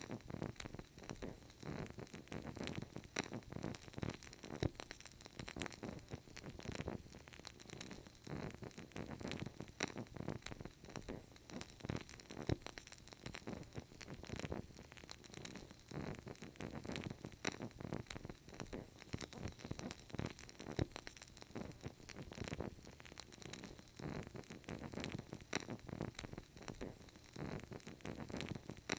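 Burning candle wick crackling quietly and continuously: many small, irregular pops over a faint hiss.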